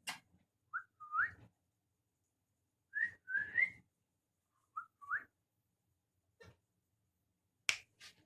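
Pet parrot whistling: three short phrases, each a brief note followed by a rising whistle. Sharp clicks come at the start, once in the middle and twice near the end.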